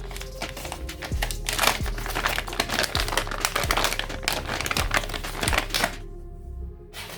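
Background music with a steady beat, over dense crinkling of plastic packaging being handled, which stops about six seconds in.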